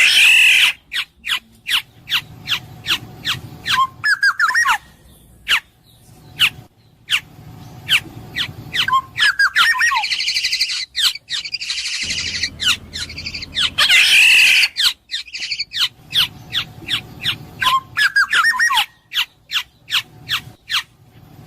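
Black-naped oriole (kepodang emas) calling: rapid runs of sharp, down-slurred chips, broken by harsh rasping calls and short fluty whistled phrases. The same sequence comes round again about every fourteen seconds.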